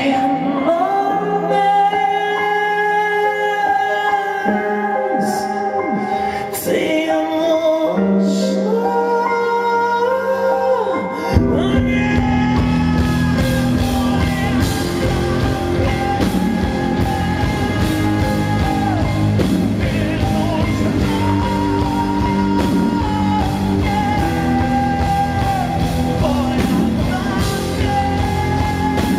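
Live rock band playing: a slow section of long held notes, then the full band comes in suddenly about eleven seconds in, with bass and a steady drum beat under guitars.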